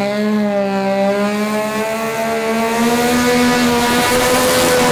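Twin-turbo VQ35 V6 of a drag car running hard at high, nearly steady revs, the pitch sagging slightly and then climbing slowly over the last couple of seconds.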